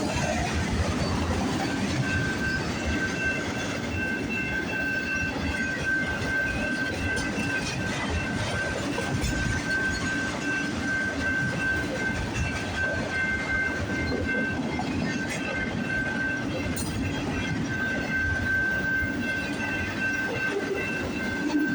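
Long CN freight train of autorack cars rolling steadily past, wheels clicking over the rail joints. A steady high-pitched squeal sets in about two seconds in, drops out for a few seconds, then comes back near the end.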